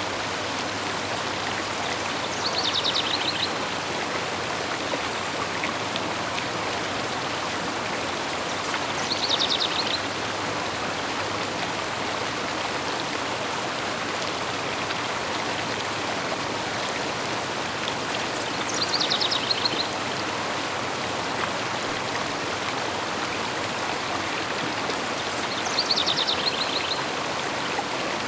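Steady rush of a flowing river. A songbird sings a short, high trill of rapid notes four times, each about a second long and several seconds apart.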